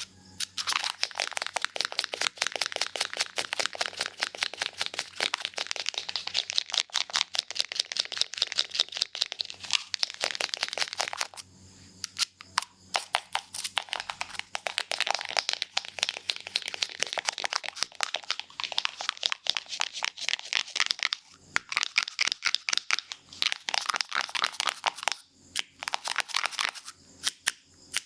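Barber's scissors snipping hair in quick succession close to the microphone, a rapid run of crisp clicks broken by a few short pauses.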